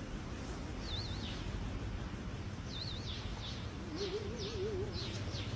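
Birds calling: a short warbling whistle repeated every second or two and quick falling chirps, over a steady low background hum, with a lower warbling call about four seconds in.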